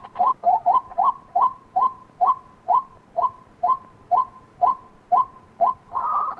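White-breasted waterhen calling: a run of short, repeated notes, about two to three a second and slowing slightly, with a denser burst of calls near the end.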